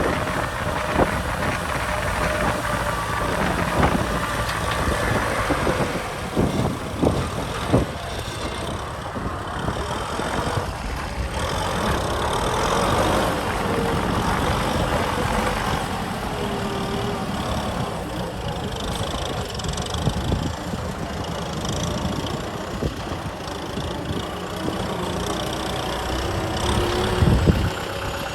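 Kubota M6040 tractor's diesel engine running steadily, with scattered knocks and rattles.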